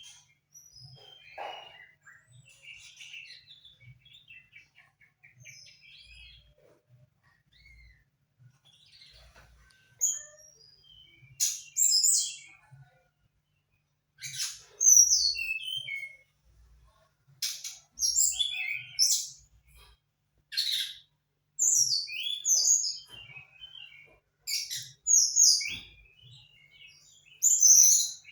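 Young songbird chirping and singing in short, separate high phrases. Faint and scattered at first, then louder phrases come every second or two from about halfway through.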